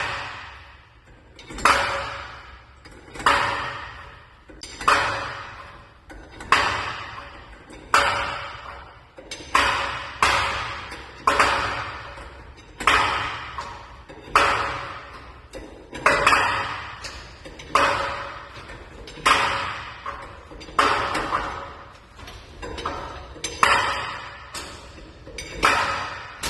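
Repeated metallic strikes, each ringing out for about a second, roughly one every one and a half seconds, a few of them in quick pairs.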